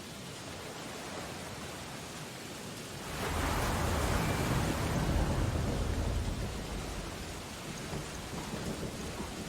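Steady rain on window glass. About three seconds in, a louder rushing rumble swells up and dies away over roughly four seconds.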